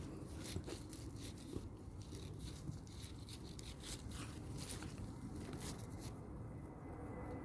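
Faint, irregular scraping and rustling of soil being dug through while potatoes are unearthed, many short scratchy strokes in a row.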